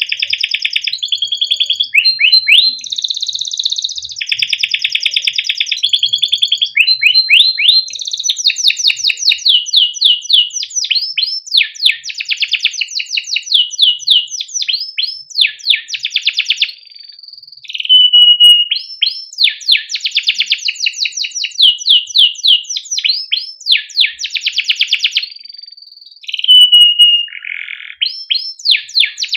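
Domestic canary singing long, unbroken song: rapid repeated chirps and rolling trills, with fast rising sweeps and brief held whistled notes between phrases.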